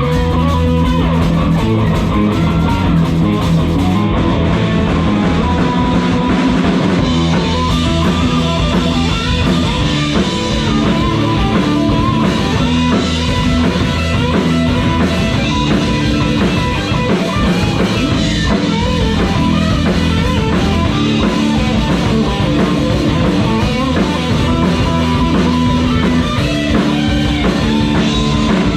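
Live rock band playing an instrumental passage: electric guitar over bass and drum kit, loud and continuous.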